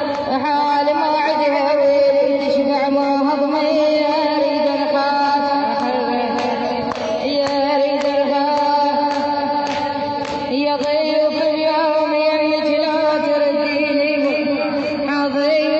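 A woman's voice chanting a Shia elegiac poem in long, held, wavering notes.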